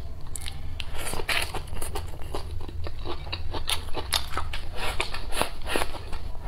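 Close-miked eating: irregular crisp crunches and wet chewing clicks as a fresh green chili pepper and egg fried rice are bitten and chewed.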